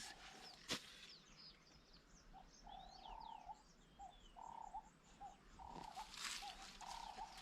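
Faint birds calling: a short low note repeated over and over, with a few thin high chirps about three seconds in. There is a single sharp click a little under a second in.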